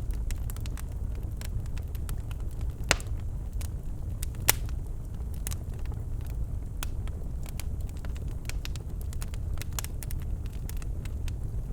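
Birch logs burning in a fireplace: a steady low rumble of the fire with frequent small crackles and snaps, and two louder pops about three and four and a half seconds in.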